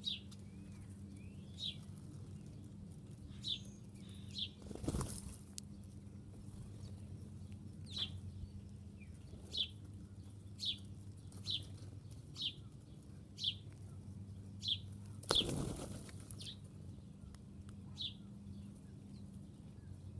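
A small songbird repeating a short, high, down-slurred chirp about once a second. There are two brief whooshes of wings flapping, about five seconds in and again near fifteen seconds, the second the louder. A low steady hum runs underneath.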